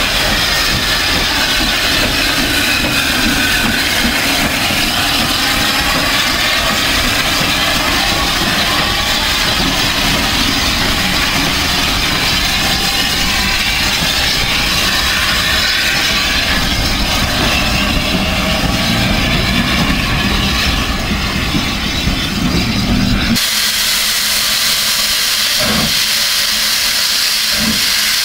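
Steam train running, with a continuous rumble and a noisy hiss. About 23 seconds in, the sound changes abruptly: the rumble drops away, leaving a steady, high hiss of escaping steam with a few soft thumps.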